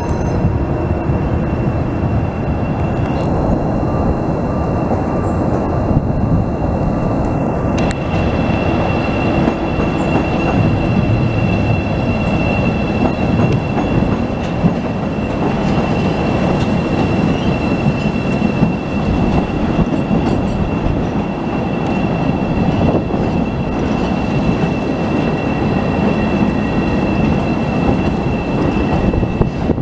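CTA 'L' rapid-transit train running over the steel elevated Loop structure: a loud, continuous rumble of wheels on rails, with a steady high-pitched wheel squeal from about a quarter of the way in.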